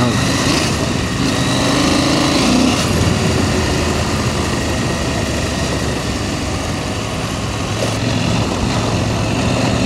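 KTM 890 Adventure R's parallel-twin engine running steadily under way on a gravel road, under a constant rush of wind and road noise.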